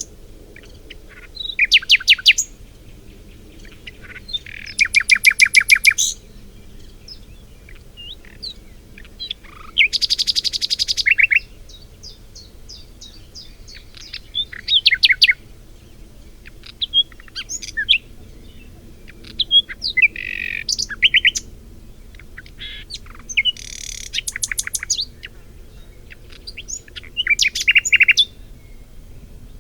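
Songbirds singing: about seven loud, fast trilled phrases, each lasting a second or two, come every few seconds, with short high chirps in between. A faint steady low hum lies underneath.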